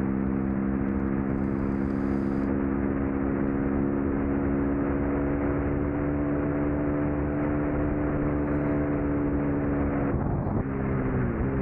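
2003 Suzuki SV650's 645 cc 90-degree V-twin racing at high revs, its pitch held steady and creeping slowly upward, with wind rushing over the onboard microphone. About ten seconds in, the revs drop and dip in steps as the rider downshifts.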